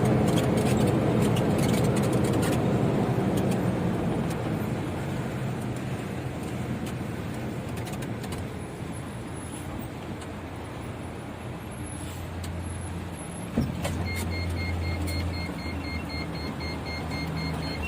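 Isuzu FTR truck's 6HK1 inline-six diesel engine running on the road on used-cooking-oil biodiesel, easing off over the first several seconds. A single knock comes about thirteen and a half seconds in, then a steady electronic beeping near the end.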